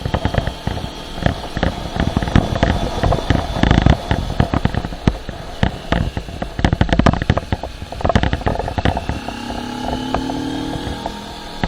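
Motorcycle riding with wind buffeting the microphone in dense, irregular crackles and pops over a low rumble. Near the end the engine's note comes through, rising slowly in pitch as the bike speeds up.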